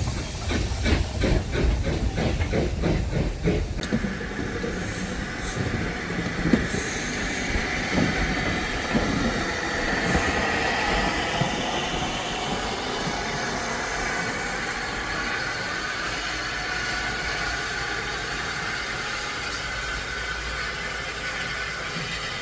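Steam locomotive working past, its exhaust beating about three times a second for the first few seconds, then a steady rumble and hiss of the train rolling on.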